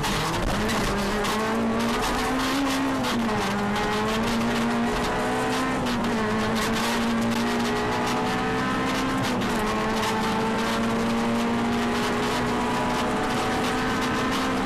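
Honda Civic Type R's four-cylinder engine pulling hard, heard from inside the cabin. Its pitch climbs at the start and again about two seconds in, drops back just before three seconds and dips again around nine seconds, then rises slowly toward the end. Many short ticks and rattles sound over it throughout.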